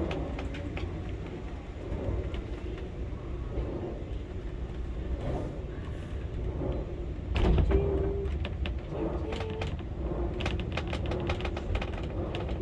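Electric funicular cliff railway car running down the incline: a steady low rumble with scattered clicks and rattles, louder for a moment about seven and a half seconds in.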